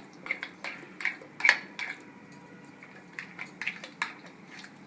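A spoon clinking and tapping against a bowl in a string of sharp, irregular clicks, the loudest about one and a half seconds in.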